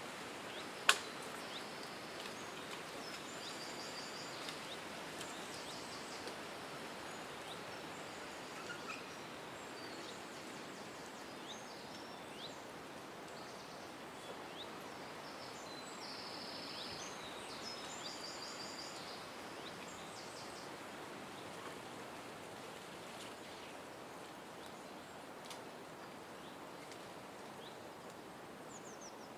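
Several birds chirping and trilling in short high phrases over a steady outdoor hiss, with one sharp click about a second in.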